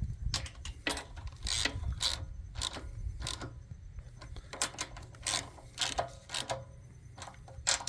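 Socket ratchet clicking in irregular short runs as the carburetor's mounting nuts are run down onto their studs, over a low steady hum.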